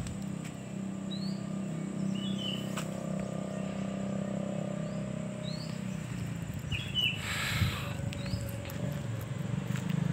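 A bird calling with repeated short rising chirps over a steady low hum. A brief rustle comes about seven seconds in.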